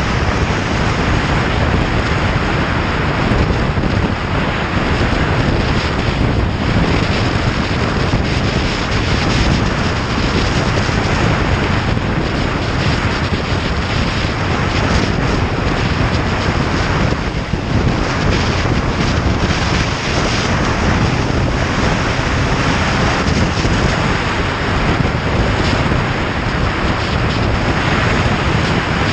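Steady wind rush buffeting the microphone on a moving motorcycle, with the bike's engine and road noise mixed in beneath it.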